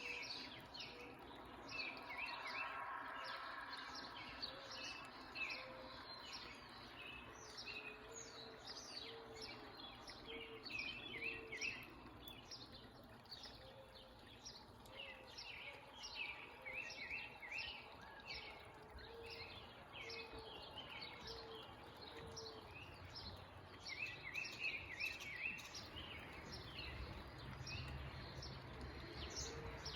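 Several songbirds chirping in quick, repeated short notes, with a row of lower short call notes, over a steady hiss of falling water from a backyard waterfall. A low rumble joins in near the end.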